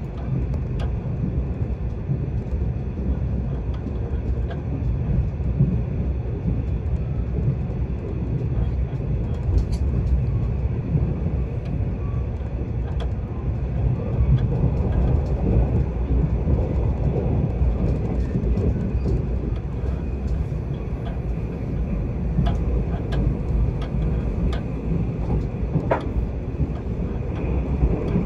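Mugunghwa-ho passenger train heard from inside the carriage at speed: a steady low rumble of wheels running on the rails, with scattered faint clicks and rattles.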